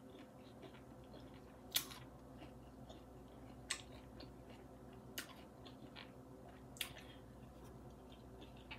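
A person chewing a mouthful of food quietly, with four short sharp smacks or clicks spaced about a second and a half apart, over a faint steady hum.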